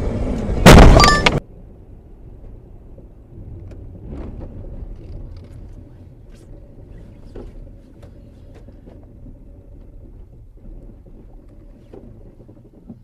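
A car crash: a sudden, very loud impact with brief ringing, about a second in. After it comes a long, quiet, muffled low vehicle rumble with scattered faint clicks.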